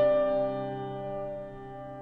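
Solo piano: notes struck just before ring on as a held chord and slowly fade, with no new notes played.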